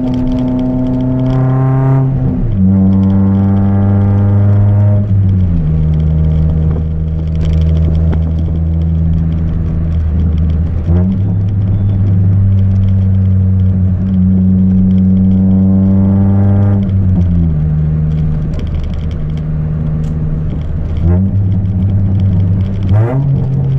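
Chevrolet Celta 1.0 four-cylinder engine through a 4-into-1 header and a straight two-inch exhaust with no mufflers, running loud as the car is driven. It holds steady pitches for several seconds at a time, stepping down and back up in pitch several times, as with gear changes and throttle changes.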